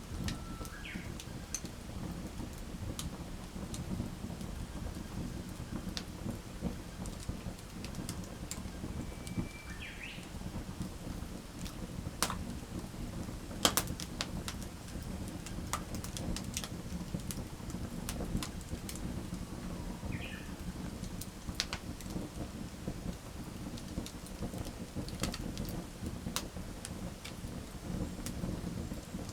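Wood fire crackling, with sharp pops scattered through over a steady low rumble; the loudest pop comes about halfway through.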